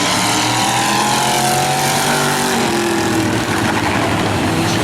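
Engines of several demo race cars running hard around an oval track, their pitches rising and falling as they accelerate and lift off through the turns.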